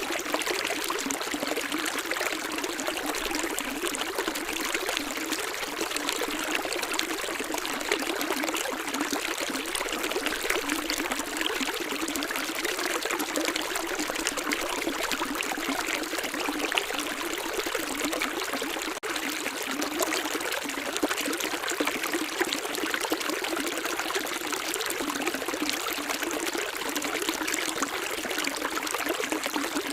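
Running water of a small stream trickling and splashing steadily.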